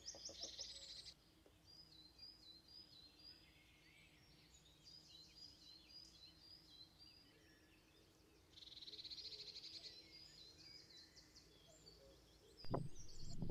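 Faint small birds singing over moorland: rapid high trills about a second in and again near ten seconds, with scattered chirps between. Near the end, loud knocks and rustling close to the microphone.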